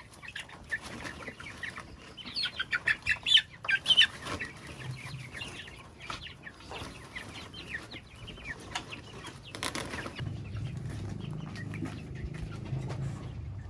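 Chickens clucking, with a quick run of sharp, loud calls about two to four seconds in. A low steady hum joins in the last few seconds.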